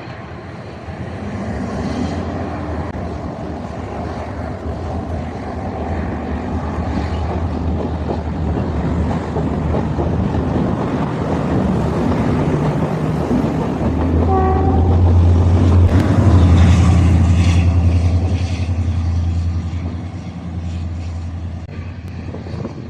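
Class S13 diesel multiple unit pulling away, its diesel engines running under load with a deep steady drone. The drone grows louder to a peak about two-thirds of the way through as the power cars pass, then fades a little. A short high tone comes a little past halfway.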